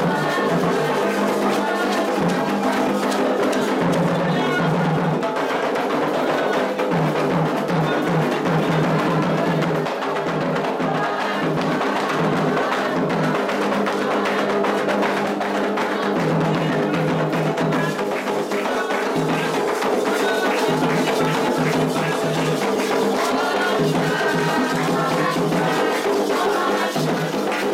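Candomblé atabaque drums played in a fast, steady rhythm with a struck bell or other small percussion, continuous ritual drumming.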